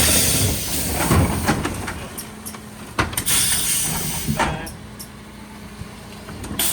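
Mercedes Econic refuse truck at work: a loud hiss of air in the first second, then a sharp clunk about three seconds in followed by a second shorter hiss, over a steady low hum.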